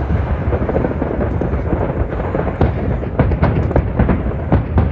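Aerial fireworks going off in quick succession: a dense low rumble of bursts with wind buffeting the phone's microphone, and sharp bangs and crackles coming thick and fast from about two and a half seconds in.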